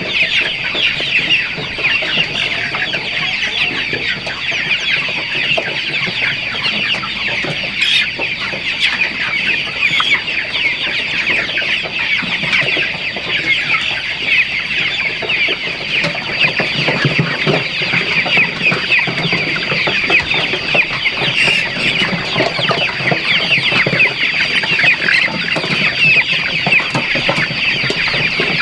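A large flock of chickens calling all at once: a dense, continuous chatter of many overlapping short high calls, with a steady high-pitched tone running underneath.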